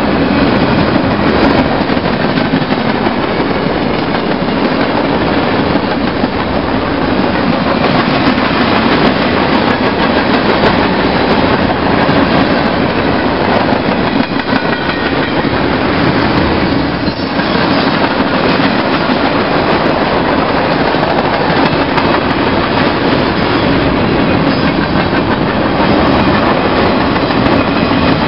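Freight train's cars rolling past close by: tank cars, covered hoppers and boxcars, their steel wheels giving a loud, steady rumble and clatter on the rails.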